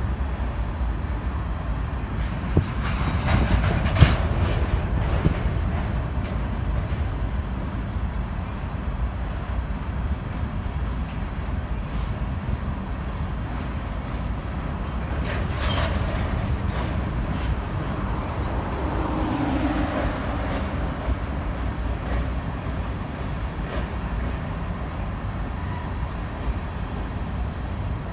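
Train rolling past with a steady low rumble, with sharp clanks and wheel clicks about four seconds in and again around sixteen seconds.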